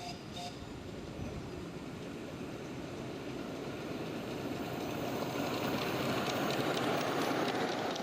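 7¼-inch gauge miniature railway train running along the track, its rumble and wheel clatter growing louder as it approaches, then breaking off abruptly at the end.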